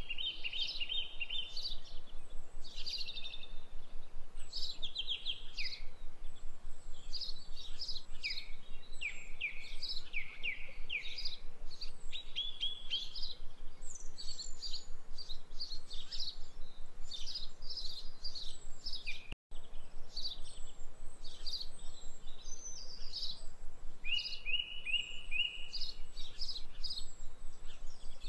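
Birds chirping and singing, a continuous run of short chirps and quick falling trills, broken by a momentary gap about two-thirds of the way through.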